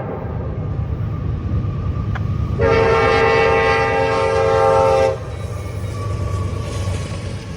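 Freight locomotive air horn sounding one long blast, about two and a half seconds long, starting two and a half seconds in, over the steady low rumble of a passing CSX intermodal train.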